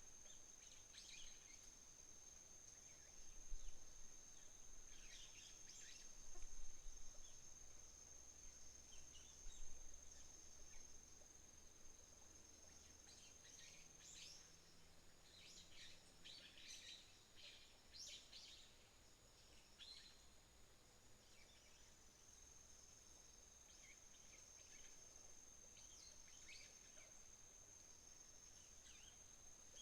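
Faint dawn chorus: an insect's steady high trill with birds chirping at intervals over it. A few low thuds in the first ten seconds are the loudest sounds.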